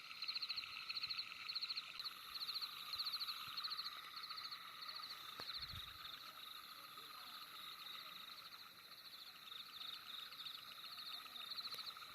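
A night chorus of calling frogs: rapid, high pulsed trills repeating two or three times a second, which fade for several seconds midway and grow strong again near the end.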